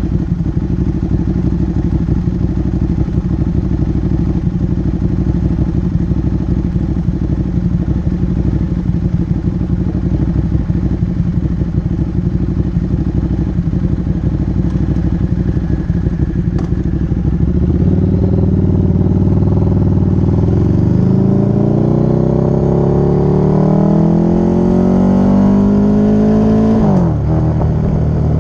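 Motorcycle engine idling with an even beat, then pulling away about two-thirds of the way through, its pitch rising until a gear change near the end briefly drops it, then rising again.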